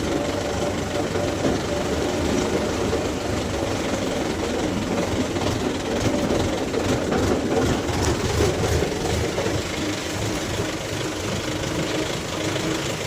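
Mahindra 475 SP tractor's diesel engine running steadily under a heavy, overloaded brick load, with a knocking diesel beat and some clatter.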